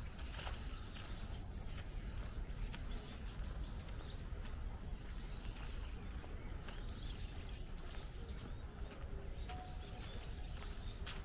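Birds chirping: short, high, arching calls repeating every second or so over a steady low background rumble.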